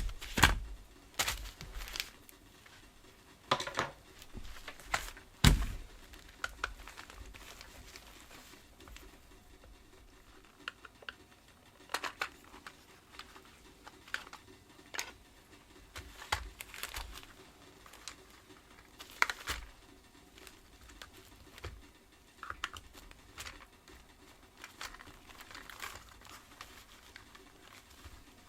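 Handling noises from working on a vacuum cleaner's rotating-brush head: irregular plastic clicks and knocks with some crinkling, the loudest knocks in the first few seconds.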